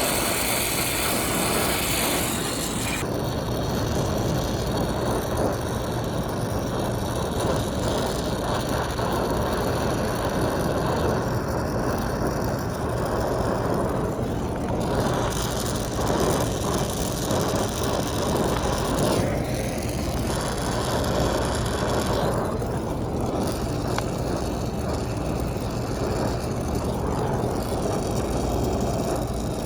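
Oxyacetylene brazing torch flame hissing steadily while joints are brazed, with its high hiss dropping back about three seconds in, over a steady low mechanical hum.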